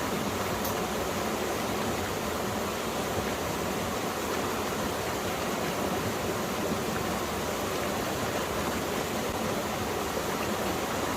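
Mountain valley stream, water running steadily over rocks.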